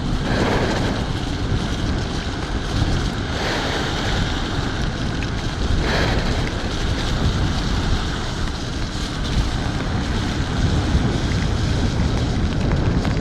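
Wind rushing over the microphone of a moving electric scooter, mixed with the hiss of its tyres on a rain-soaked road. It is a steady rushing noise with a couple of brief surges.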